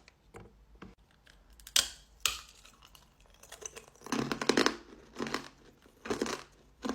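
Hard-boiled ribbon candy cracking and crunching, with wrapper crinkling: a few sharp separate cracks, then short clusters of crunches.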